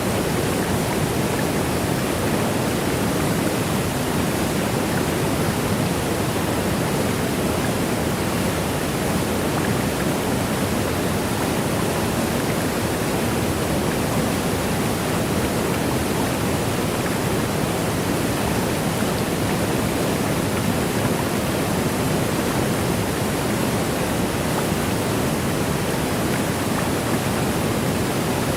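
Waterfall: water rushing and cascading in a steady, even roar with no breaks or changes.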